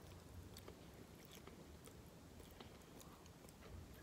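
Faint chewing of a mouthful of spaghetti: scattered soft, wet mouth clicks.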